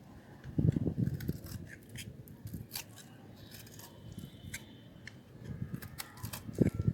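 A blade cutting into a bar of hard, dry soap, giving a crisp crackle as the brittle soap breaks. Two louder bursts come about half a second in and near the end, with small scattered crackles between.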